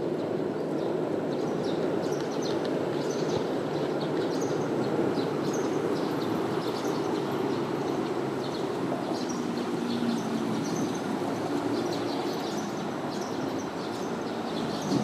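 Steady low rumbling background noise, with faint short high chirps scattered through it.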